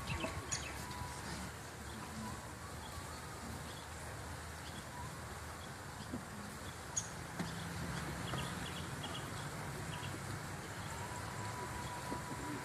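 Outdoor background ambience: a steady hiss with a few short high chirps about two-thirds of the way in, a few light clicks, and a faint steady high tone near the end.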